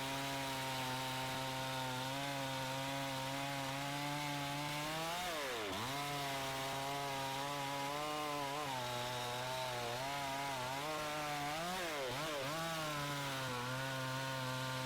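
Chinese Zenoah-clone two-stroke chainsaw running at high revs while cutting through wood. The engine pitch dips sharply and recovers twice, about six seconds in and again about twelve seconds in.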